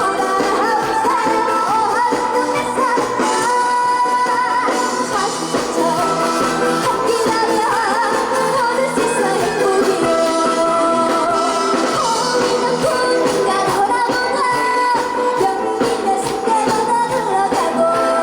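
A trot song performed live: a young female singer's voice over a loud backing track.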